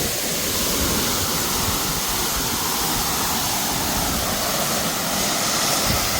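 Waterfall: steady rushing of falling water crashing into a plunge pool.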